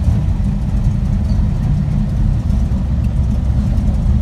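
Car engine running steadily at low speed, a low, even drone with no change in pitch.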